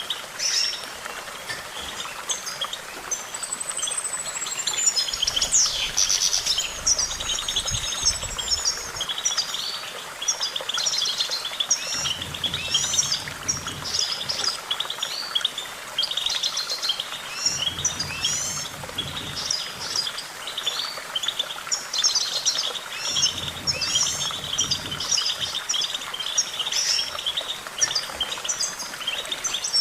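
European goldfinch singing: a continuous, fast, high twittering song of rapid chirps and trills, broken now and then by longer arching notes that rise and fall.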